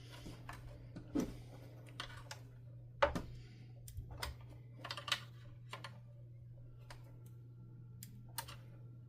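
Irregular small clicks and taps of hard plastic vacuum parts and hand tools being handled during disassembly, the sharpest knock about three seconds in, over a steady low hum.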